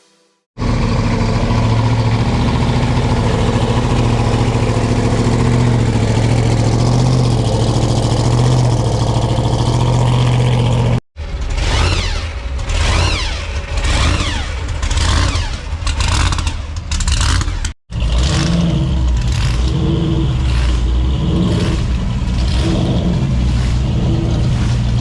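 Loud car engines in three cut-together clips: first a steady low rumbling idle, then an engine revved repeatedly with its pitch rising and falling, then another engine idling with a steady, pulsing rumble.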